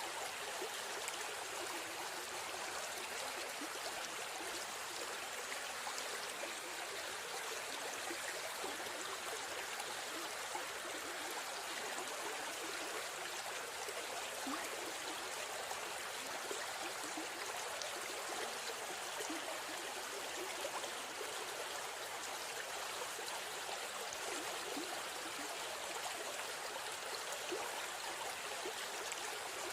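River stream flowing, a steady rushing and trickling of water.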